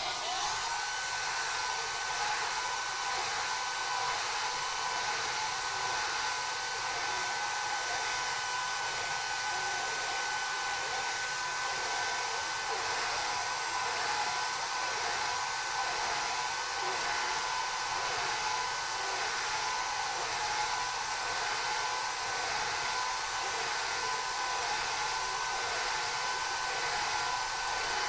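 Electric hair dryer blowing steadily, a constant rush of air with a thin steady whine.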